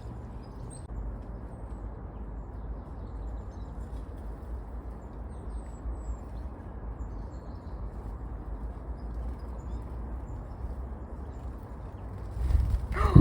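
Faint, short high-pitched chirps of tits over a steady low outdoor rumble, with a louder burst of noise near the end.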